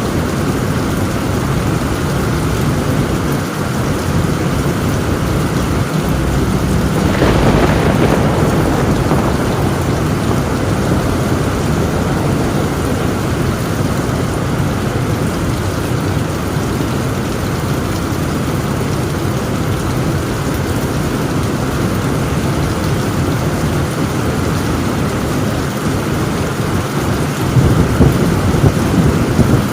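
Heavy rain pouring steadily on a tin roof, with thunder rumbling: a louder clap about a quarter of the way in and another low rumble swelling near the end.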